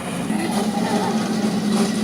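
A vehicle's motor running with a steady hum that rises slightly in pitch about a third of a second in.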